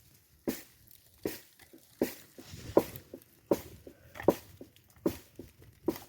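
A steady series of sharp strikes or crunches, about eight in all, evenly spaced at roughly one every three-quarters of a second.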